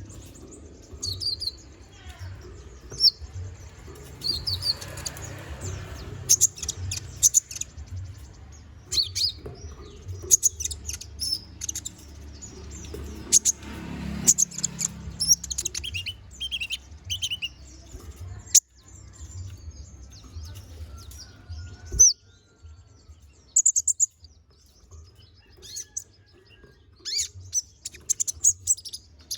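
Konin (brown-throated sunbird) singing in full, varied song: rapid high-pitched chirps and short twittering phrases in irregular bursts. A low background hum underlies the song and cuts off about three quarters of the way through.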